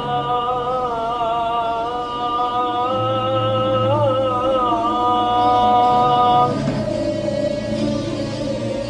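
A man's solo voice chanting a long, drawn-out melodic line with a short wavering ornament near the middle, over a low steady drone. The voice stops about six and a half seconds in.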